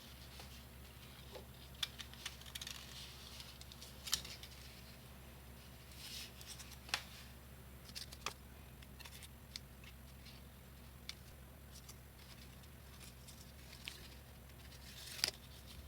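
Scissors snipping and construction paper being handled, heard as scattered small sharp clicks and crinkles that come irregularly and sparsely.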